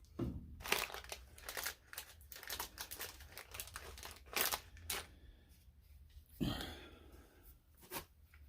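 Wooden jig pieces being handled and fitted together on a workbench: light, irregular clicks and rustles, with a louder knock about six and a half seconds in.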